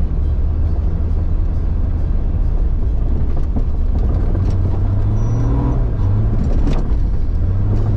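1999 Jeep Cherokee XJ engine running steadily while driving, the revs rising briefly about five seconds in and again near the end, with a sharp knock a little before the end.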